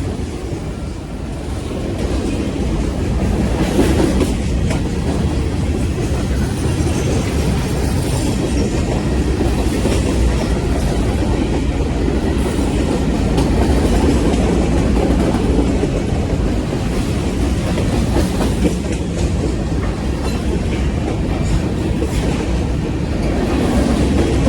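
A train running along the track: a steady low rumble with the clickety-clack of wheels passing over rail joints.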